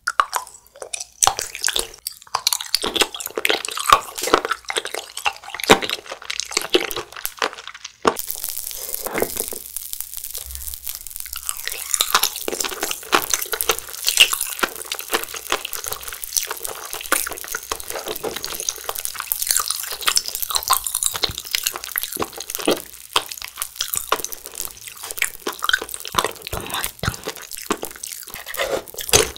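Close-miked chewing of a soft fruit jelly ball coated in crunchy candy beads: wet, squishy bites mixed with crunching. About eight seconds in, a dense fine crackle sets in and runs on under the chewing.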